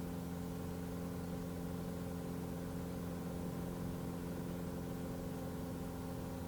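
Cessna 182's single piston engine and propeller running at a steady, unchanging pitch, heard inside the cabin.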